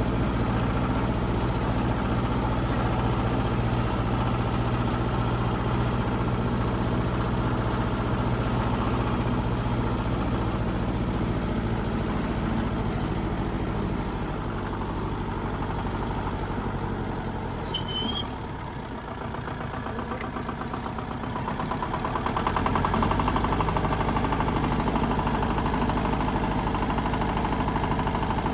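Diesel engine of a heavy construction machine running steadily. It eases off about halfway through, with a brief squeak, then gets louder again near the end.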